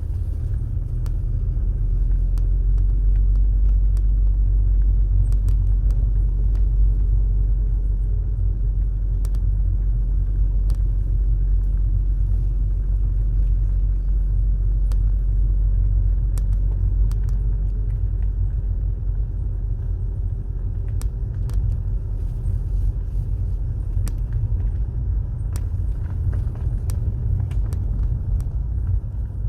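Car being driven: a steady low road-and-engine rumble, with a few faint scattered ticks.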